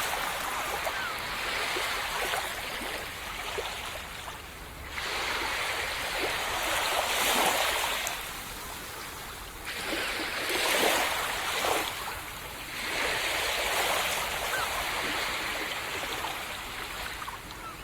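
Sea waves washing up on a sandy tropical beach, a wave every few seconds, each a rush of surf that swells and then eases off.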